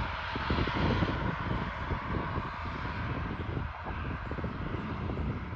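ATR 72 turboprop airliner's engines running, heard at a distance as a steady drone, with gusty low rumble on the microphone.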